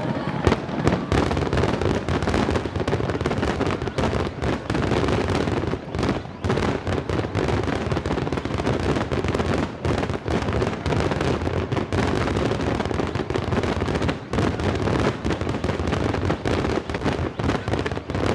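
A dense barrage of aerial firework shells bursting, with many overlapping reports every second and no pause.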